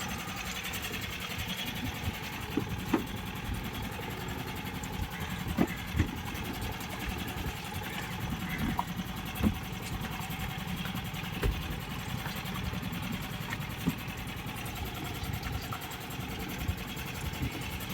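A small backwater boat's engine running steadily, with a few light knocks now and then.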